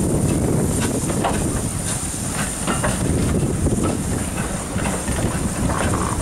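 Passenger coaches of a steam-hauled train rolling past close by, a steady low rumble with irregular clicks of wheels over rail joints, and steam hiss from the locomotive ahead.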